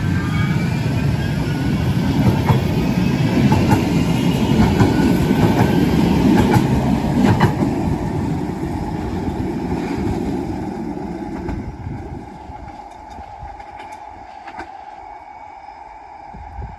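Manchester Metrolink tram (Bombardier M5000) passing close by: its traction motors whine, rising in pitch as it gathers speed, and its wheels click sharply a few times over the rails. The rumble fades away over the last few seconds.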